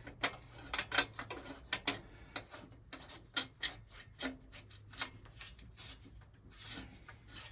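Irregular metallic clicks, taps and light scraping as a motorcycle exhaust down pipe and its fittings are handled and worked home into the cylinder head port.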